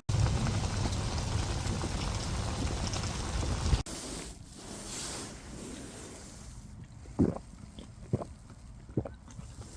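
Wind buffeting the microphone with a loud low rumble, which cuts off abruptly about four seconds in. A quieter steady hiss follows, with a few sharp pops near the end.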